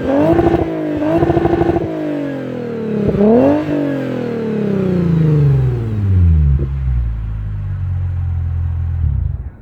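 Lexus IS350's 3.5-litre V6 through an ARK Performance catback exhaust, revved in quick blips, then falling back to a steady idle about seven seconds in. The sound drops away abruptly near the end.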